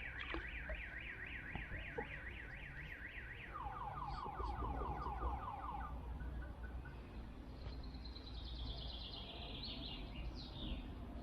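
Distant car alarm cycling through its tones: a fast series of rising whoops, then a lower series, and after a short pause a higher series.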